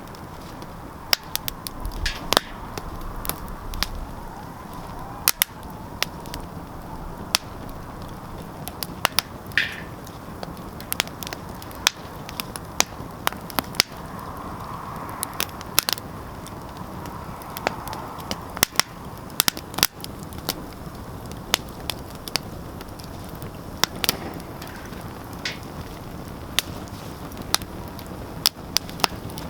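Wood fire burning in a fireplace: irregular sharp crackles and pops over a steady low hiss of flame, with a brief hiss about ten seconds in.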